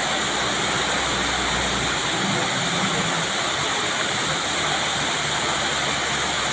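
Waterfall rushing as a steady, even noise, with a low hum underneath for about the first two seconds.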